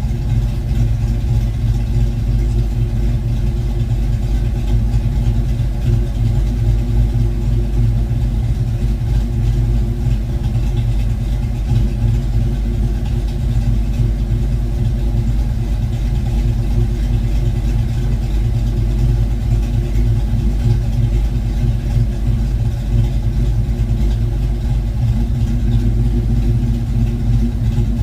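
Ford V8 in a 1972 Mustang Mach 1, fitted with a Crane 2040 cam and a single 3-inch exhaust through a Black Widow Venom muffler, idling steadily.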